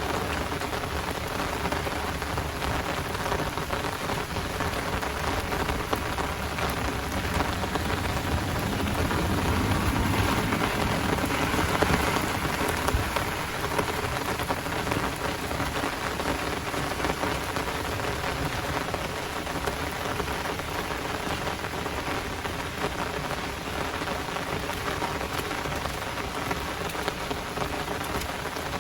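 Heavy rain falling steadily, with a louder swell about ten seconds in.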